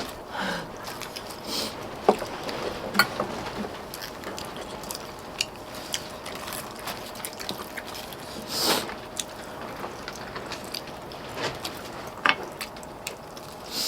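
Eating sounds: chewing, with scattered sharp clicks and taps of utensils against dishes.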